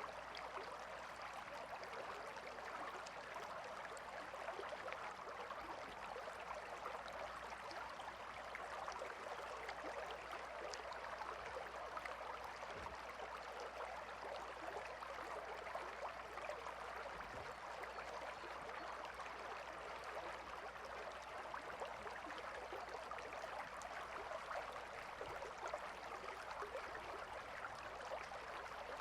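A calm river flowing steadily over stones, a continuous even splashing and babbling of water.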